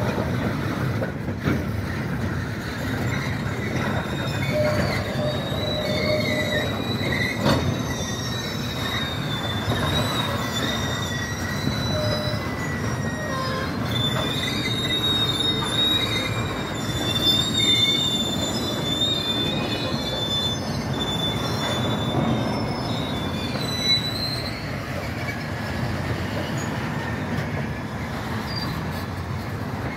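Railcars of a Union Pacific maintenance-of-way train rolling past, a steady wheel-on-rail rumble with high-pitched squeals coming and going, which die away after about 25 seconds. There is a single sharp clank about 7 seconds in.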